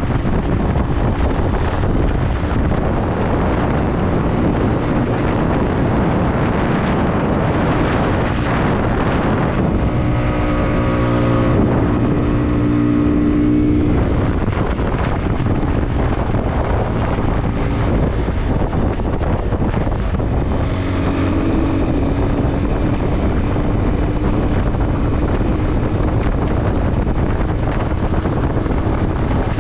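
Motorcycle engine running under way, heavily masked by wind buffeting on the microphone. The engine note comes through more clearly about ten seconds in and again from about twenty seconds in.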